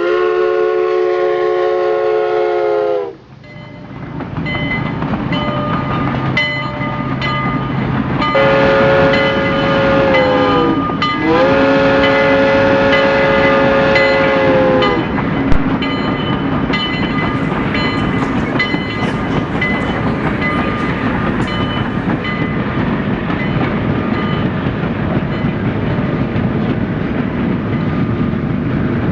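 Miniature train's sound system blowing a multi-note horn: one blast at the start, then two more from about eight to fifteen seconds in, each sagging in pitch as it cuts off. Under and after the blasts the train runs steadily along the track.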